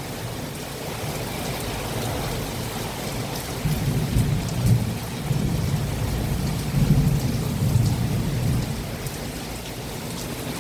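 Heavy rain falling steadily in a summer thunderstorm, with low rumbling thunder that swells and fades through the middle.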